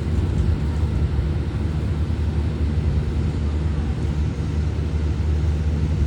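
Pressure-type ventilation fan, thought to be a Mitsubishi, running with a steady low hum.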